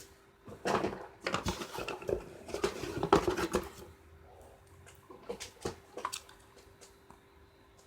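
Clatter of objects being handled: a run of irregular knocks and rattles, busiest in the first few seconds and thinning out after about four seconds, over a faint steady hum.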